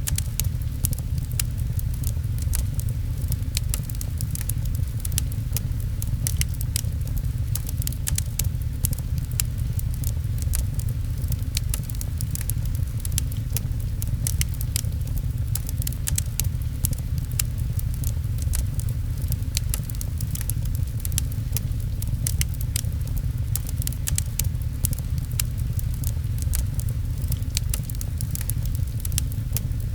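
Wood fire crackling with frequent small, irregular pops over a steady low rumble, as in an ambience of rain and a fireplace.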